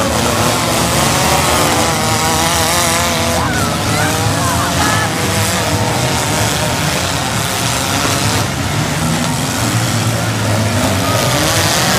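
Several four-cylinder demolition derby cars' engines revving hard, their pitch wavering up and down, under a loud crowd murmur.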